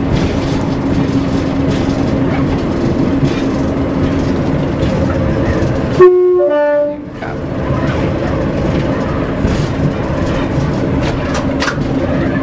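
Class 141 Pacer railbus running along the line, heard from the driver's cab as a steady rumble of engine and wheels with a low drone. About six seconds in, the unit's horn sounds one two-note blast lasting about a second, the loudest sound here.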